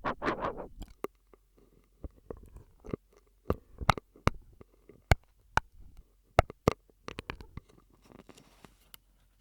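Close-miked mouth sounds made through a straw: a wet, noisy burst in the first second, then a run of irregular sharp clicks and pops, with a faint breathy hiss near the end.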